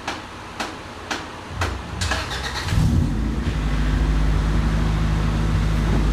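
Honda Civic's freshly swapped-in DOHC four-cylinder engine cranking briefly and catching about three seconds in, then settling into a steady idle. Before that, sharp ticks come about twice a second.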